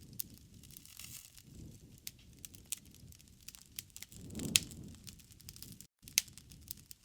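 Wood fire crackling: scattered sharp pops and snaps over a low rumble of flames. A louder swell with a strong pop comes about four and a half seconds in, and the sound briefly cuts out about six seconds in.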